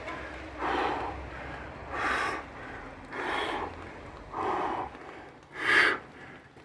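A man breathing hard: five heavy, gasping breaths about a second apart, the last the loudest. He is winded from a long set of Navy SEAL burpees.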